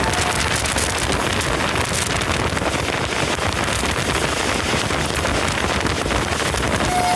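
Train running past close by at speed: a loud, steady rush of wheel, rail and wind noise. A two-tone train horn is cut off just after the start and sounds again near the end.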